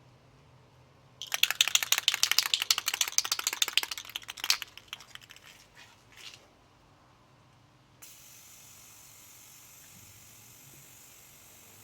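Motorcycle drive chain clicking rapidly over the sprockets as the rear wheel is turned by hand during lubing. The clicks come thick and fast for about three seconds, then thin out as the wheel slows, and a faint steady hiss starts near the end.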